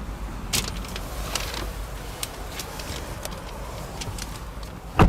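Scattered light clicks and handling knocks on car-interior trim over a low steady hum, then one sharp thump about five seconds in, like a compartment lid or latch being worked.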